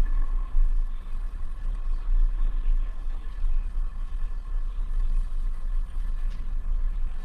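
Falcon 9 first stage's nine Merlin 1D engines during ascent, heard as a steady, deep, fluttering rumble.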